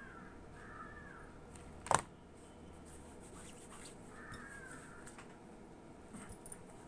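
A bird calling in the background: two short arched calls near the start and one more a little past the middle. A single sharp click about two seconds in is the loudest sound.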